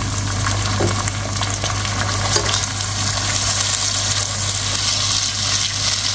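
Onions and ginger-garlic paste frying in hot oil in a pot: a steady sizzling crackle, with a steady low hum underneath.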